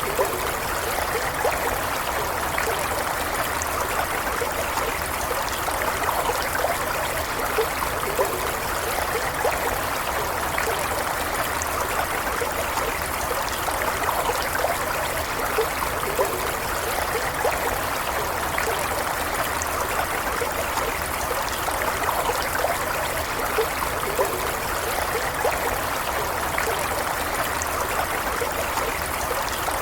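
Stream water running steadily over stones, an even rushing with many small trickling and splashing sounds.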